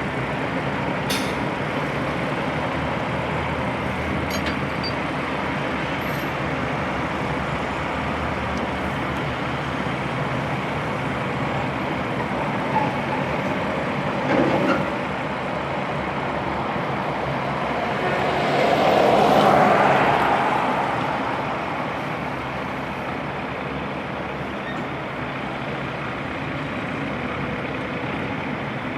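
Heavy truck's diesel engine running steadily. A short louder burst comes about halfway through, and about two-thirds through a rush of noise swells to the loudest point and fades away again.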